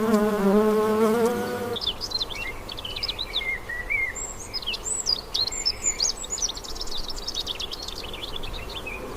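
An insect buzzing with a steady, slightly wavering pitch stops about two seconds in. Rapid, high bird chirping and twittering follows and keeps going.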